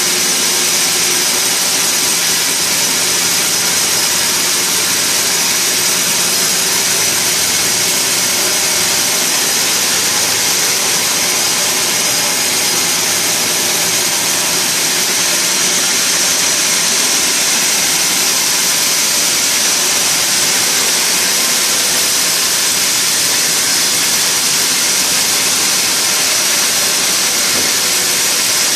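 Sawmill machinery running steadily: a loud, even, high-pitched rushing noise that does not change throughout.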